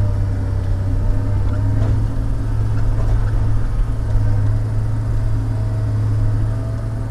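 Log loader's diesel engine running steadily with a strong low hum, with a few faint knocks as logs are handled.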